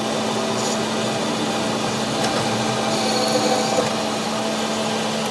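A power tool or shop machine running steadily: a constant hum under an even, harsh noise.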